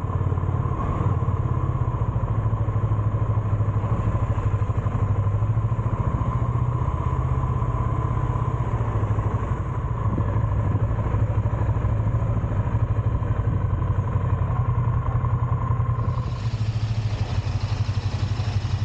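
Ducati Scrambler's air-cooled L-twin engine running steadily with an even low beat. More hiss joins near the end.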